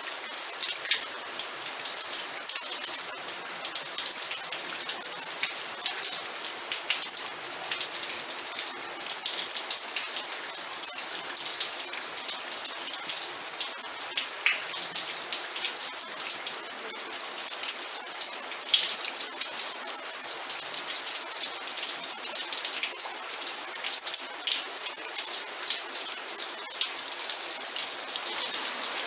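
Steady rain falling, a dense high hiss with the patter of individual drops striking a surface.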